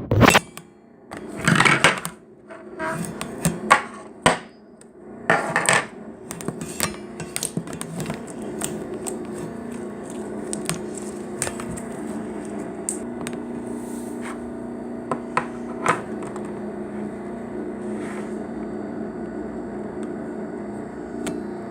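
Slime being squished and poked by hand, with sticky popping and crackling clicks. The clicks come in several loud bursts in the first six seconds, then thin out to scattered single clicks over a steady low background hum.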